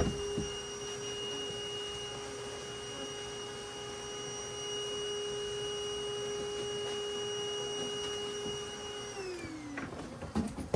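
No-kill honeybee vacuum's motor running with a steady whine, then switched off about nine seconds in, its pitch falling as it spins down. A few clicks and knocks follow near the end.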